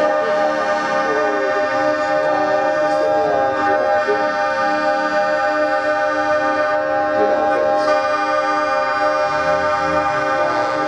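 Several truck horns sounding together as one continuous, steady chord, with fainter wavering siren-like tones beneath.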